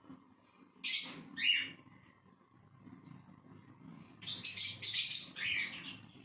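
Pet parrot chirping: two short calls about a second in, then a run of several quick, harsher calls from about four seconds in to nearly six.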